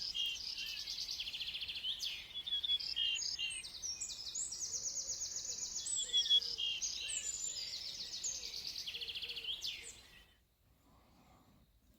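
Small birds singing: quick high trills and chirps, several overlapping. The birdsong cuts off abruptly about ten seconds in.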